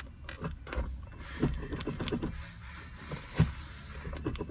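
Scattered clicks and knocks of handling inside a parked car's cabin, with the loudest knock about three and a half seconds in, over a low steady rumble.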